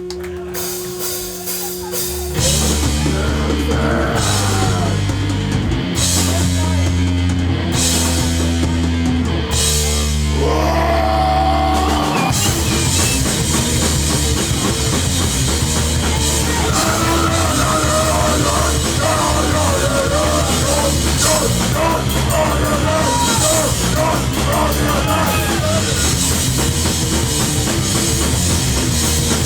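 Hardcore punk band playing live with distorted guitars, bass and drums: first a slow intro of heavy chords held for a second or two each, then about twelve seconds in the whole band kicks in fast with driving drums. Shouted vocals come in a few seconds later.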